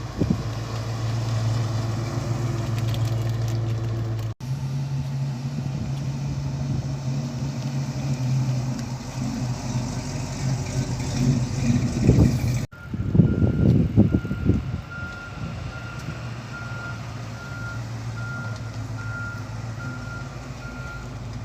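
Car engine running with a steady low rumble, broken by two abrupt cuts, then a few seconds of loud uneven bursts. After that a short high beep repeats about one and a half times a second, like a reversing warning.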